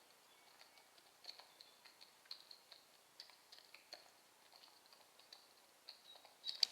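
Faint, irregular light tapping and ticking of raindrops, with a sharper tap near the end and faint high-pitched chirps.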